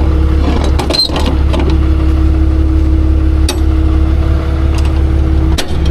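A vehicle engine running steadily with a constant low hum, a few light clicks over it.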